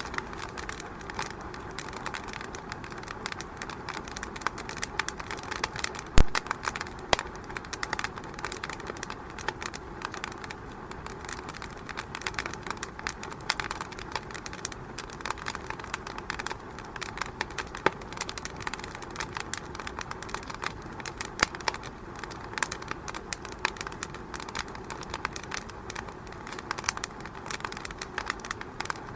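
Wood fire in a fireplace crackling: a dense, irregular run of small pops and snaps, with one louder pop about six seconds in.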